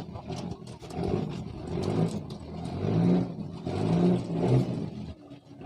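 A boat's engine running, its revs rising and falling in swells about once a second.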